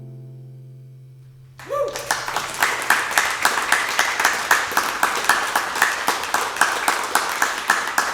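The final strummed acoustic guitar chord rings out and fades. About a second and a half in, a small audience breaks into applause with a brief cheer, and the clapping goes on to the end.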